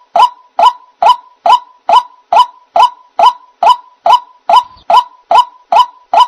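White-breasted waterhen (ruak-ruak) call played as a bird-trap lure: a short pitched call repeated evenly, a little over two calls a second, without a break.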